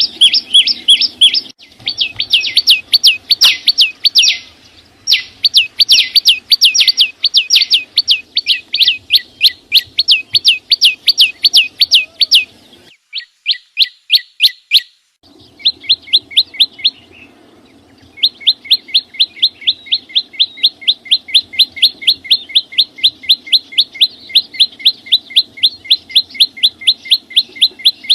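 Small songbird, the 'chim sâu xanh', singing a rapid series of sharp downslurred chirps, about four a second, in long runs broken by short pauses.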